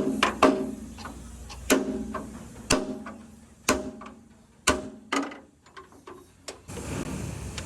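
Hammer blows on truck sheet metal, separate strikes about once a second, some closer together, each with a short metallic ring. A steady low hum comes in near the end.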